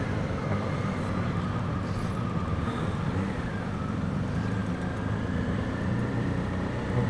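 BMW R1250GS boxer-twin motorcycle under way, its engine running steadily under wind rush, heard from inside the rider's helmet.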